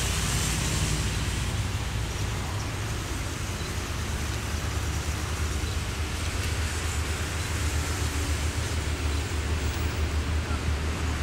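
Harina passenger train rolling past at speed: a steady rumble of wheels on rail with a rushing noise.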